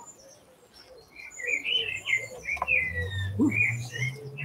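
A songbird singing: a run of short chirps and falling whistles starting about a second in, over a low hum that rises slightly in pitch in the second half.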